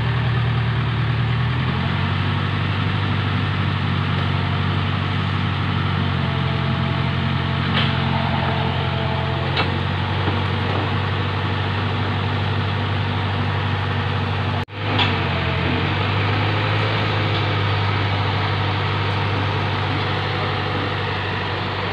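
Truck engine running steadily at idle, its low hum stepping slightly in pitch a couple of times, with a momentary dropout about fifteen seconds in.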